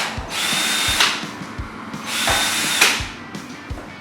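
Handheld power drill whirring in short bursts, its motor whine falling as each burst winds down, with low knocks in between.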